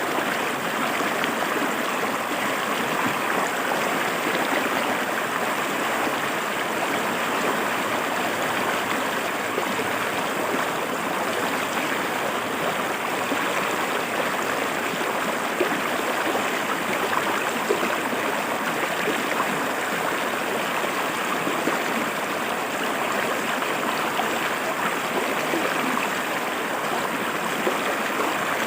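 River water flowing steadily over rocks, an even rushing with fine gurgling and splashing.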